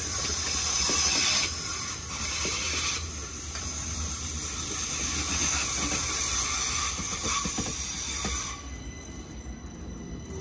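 Uetliberg railway train running on the rails: a steady high hiss of wheels and running gear over a low rumble, with a few faint clicks. The hiss drops away sharply about three-quarters of the way through.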